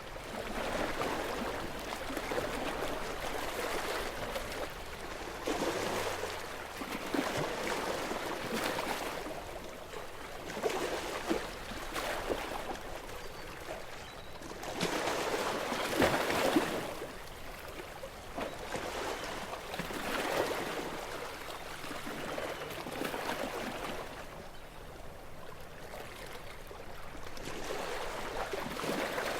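Gentle sea waves washing and lapping on the shore, the sound of the water rising and falling every few seconds, with a stronger wash about halfway through.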